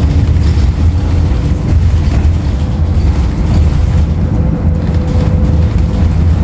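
Steady low rumble inside a 2016 Nova Bus LFS transit bus under way, from its Cummins ISL9 diesel and road noise, with a faint steady whine above it.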